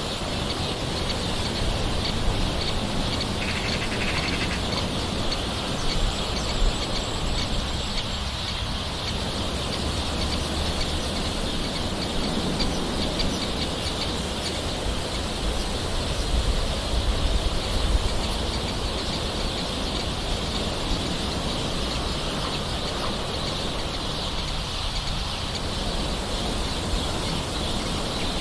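Gentle, steady rain with birds calling in the background.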